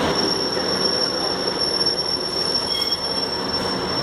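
Class 143 Pacer diesel railbus arriving with a steady high-pitched wheel squeak over the rumble of the train, a second squealing tone joining near the end. The squeak is absolutely horrible.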